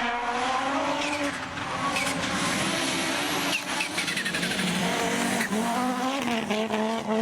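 Group B rally car engine running hard, its note rising and falling with the revs, with a high whistling sound over it that could be the turbo.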